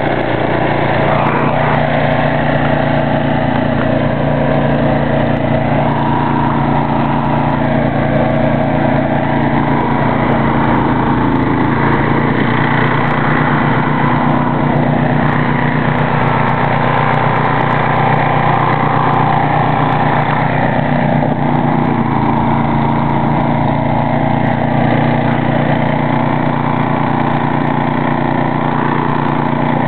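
Ariens snow thrower engine running steadily at a constant speed.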